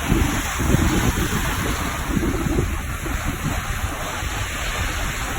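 Ocean surf breaking and washing on the shore, with wind buffeting the microphone in uneven low rumbles.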